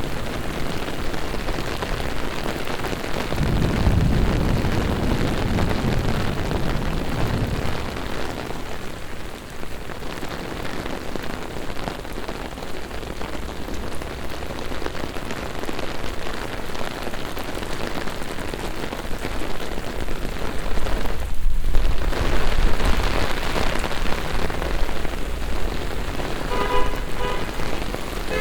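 Heavy rain pouring onto a city street and pavement, a steady hiss. A low rumble swells for a few seconds about four seconds in, and a few short beeps come near the end.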